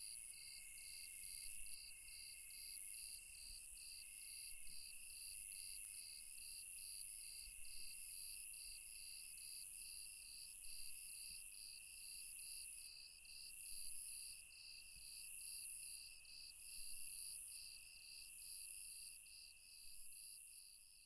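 Night insect chorus: crickets chirping in a steady rhythm of about two to three pulses a second over a continuous high trill, with a shrill high hiss of other insects swelling and fading about once a second.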